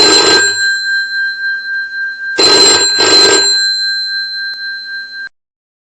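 Telephone bell ringing in a double-ring pattern, two short rings then a pause then two more, with a ringing tone hanging on after each pair before it cuts off abruptly.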